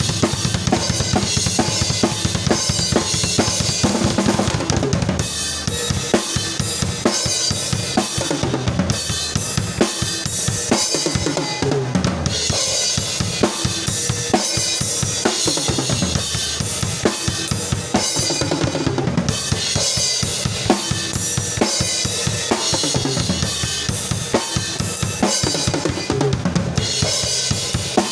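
Drum kit playing a steady groove on its own, with no other instruments: bass drum and snare on a regular beat under continuous cymbal and hi-hat strikes.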